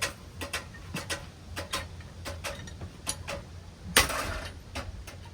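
A damaged Hunter Coastal Breeze Plus ceiling fan running and clicking about three times a second as broken parts knock on each turn, with a loud crash about four seconds in.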